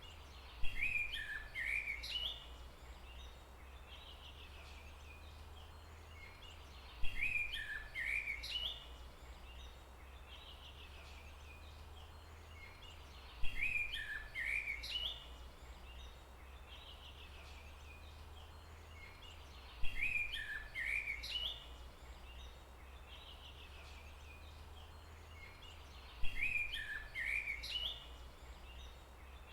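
A songbird's short warbling phrase of rising and falling notes, repeated five times at even intervals of about six and a half seconds in an identical looped recording, over a low steady rumble.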